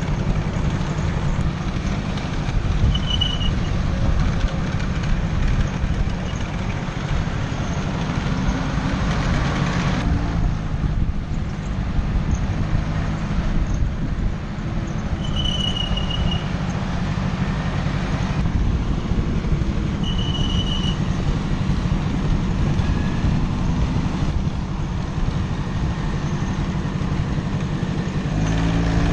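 Vespa scooter on the move: steady engine and road noise under heavy wind rumble on the microphone, with three brief high-pitched chirps along the way.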